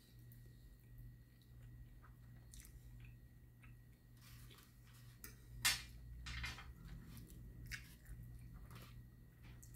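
A person chewing a mouthful of food close to the microphone, with scattered small wet mouth clicks and one louder sharp click a little past halfway.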